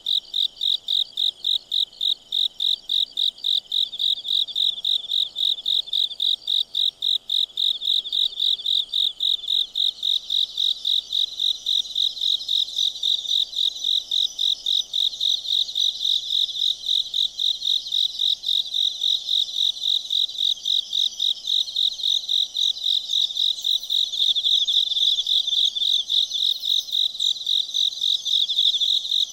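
Crickets chirping in a steady, even rhythm of about three high chirps a second. A second, higher-pitched insect joins about ten seconds in.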